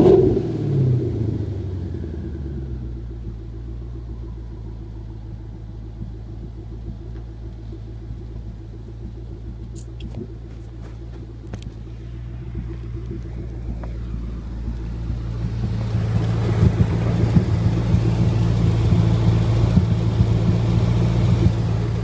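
2011 Mustang GT's 5.0 V8 with a Hellion twin-turbo kit and electric exhaust cutouts: one quick rev right at the start, then a steady rumbling idle that grows louder in the last several seconds.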